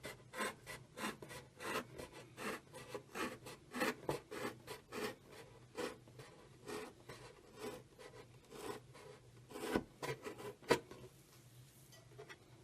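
A blade sawing through an orange juice container, cutting a hole, in short rasping strokes about two a second, with two louder strokes just before it stops near the end.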